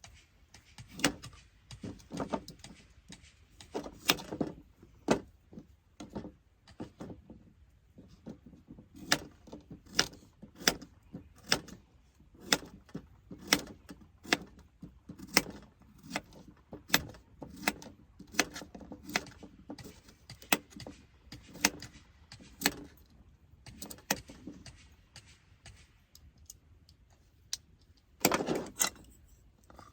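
A series of sharp, irregular clicks and clacks, about one or two a second, like hard objects or utensils being handled, with a longer scraping rustle near the end.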